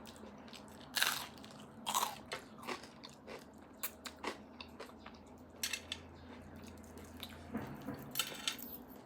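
Close-miked eating: crunchy bites and chewing heard as irregular short crackles and clicks, the loudest about one and two seconds in.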